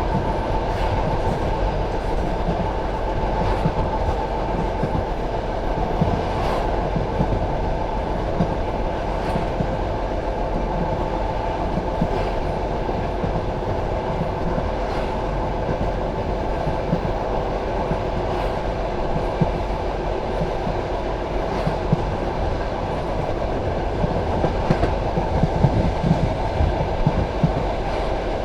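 Passenger train carriage running along the track, heard from inside the carriage: a steady rumble of wheels on rails with a sharp click from the rail joints every few seconds and a small cluster of clicks near the end.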